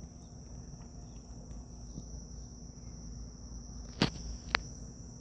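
Two sharp clicks about half a second apart, from a computer mouse, over a faint steady high-pitched tone.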